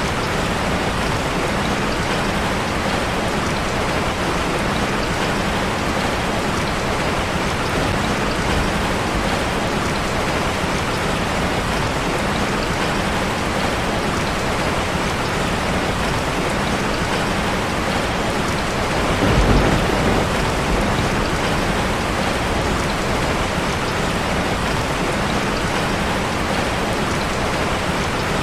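Steady heavy rain drumming on a metal roof, with a low rumble of thunder swelling briefly about two-thirds of the way through.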